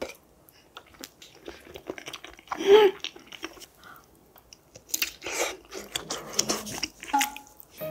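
Close-up eating sounds: a mouthful of sauced rice being chewed with small wet clicks, then a bite into a juicy long sausage, which brings the strongest cluster of bite and chew sounds about five seconds in. A short hum is heard about three seconds in.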